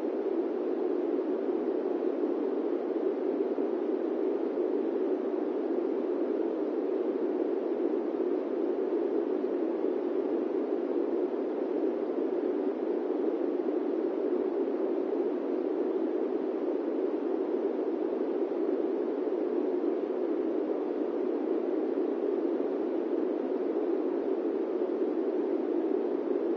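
Airplane-cabin white noise: a steady, even, low rushing drone with no changes.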